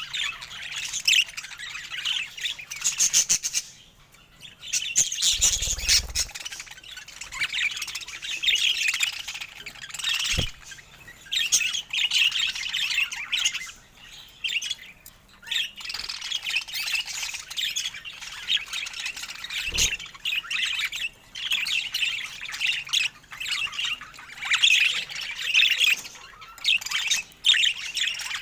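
Budgerigars chattering and warbling: rapid, scratchy squawks and chirps that run on with brief pauses. A dull bump comes about five and a half seconds in, and there are a couple of faint knocks later.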